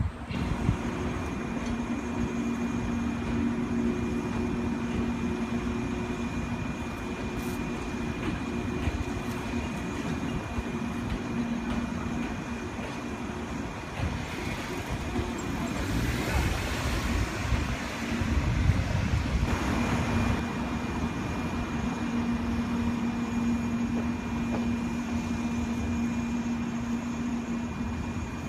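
Train sound: a steady hum with a low tone and a thin high whine, with a louder rush of noise about halfway through that fades a few seconds later.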